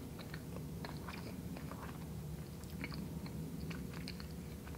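Close-up chewing of a mouthful of donut with thick peanut butter cream topping: soft, wet mouth clicks and smacks scattered throughout.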